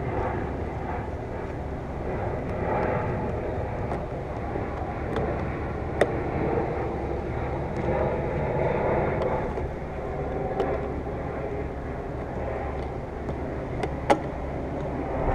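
Steady background rumble with a few sharp clicks of a hand tool working small Torx screws loose at the base of a car's windshield; the loudest clicks come about six seconds in and near the end.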